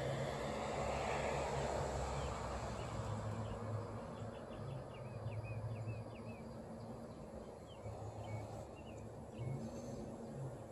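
Outdoor ambience: a small bird chirps two quick runs of short high notes, a few seconds in and again near the end. Under the chirps runs a steady low rumble with breeze noise.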